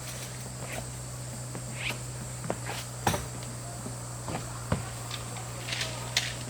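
Crickets chirring in a steady high-pitched drone, with scattered light clicks and knocks of gear being handled.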